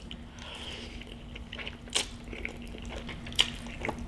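Close-miked wet eating sounds of spaghetti carbonara being chewed: soft sticky mouth clicks and smacks, with a couple of sharper smacks about two seconds in and again about three and a half seconds in.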